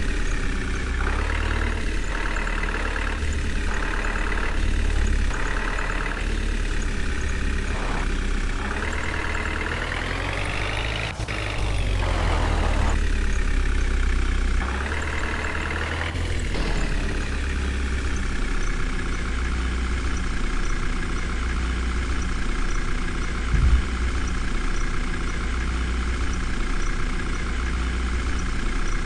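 A heavy vehicle engine idling with a pulsing beat, then revving up and back down twice before settling into a steady idle. A single low thump comes near the end.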